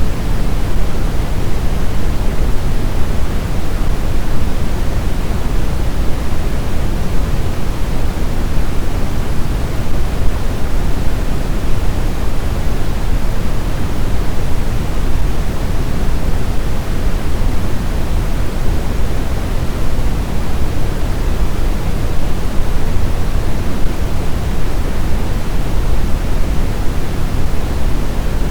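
Snowstorm wind: a steady, dense rushing noise, heaviest in the low end, with no distinct gusts or howls.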